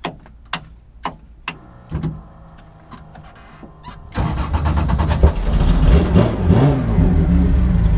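A few sharp clicks in the first two seconds, then the Porsche 911 race car's flat-six engine fires about four seconds in and runs loudly, the revs rising and falling a little.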